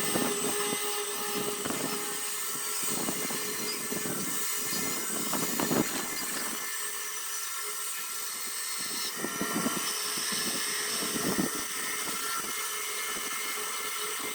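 Electric rotary carving tool running with a steady high whine, with irregular rasping strokes as it works the torreya wood.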